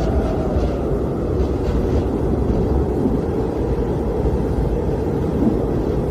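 Blizzard wind blowing steadily with a deep rumble and a faint howling tone that sinks in pitch near the start.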